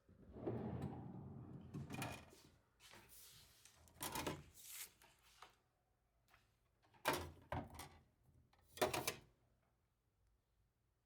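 Objects being handled: rustling, then a few separate knocks and clunks.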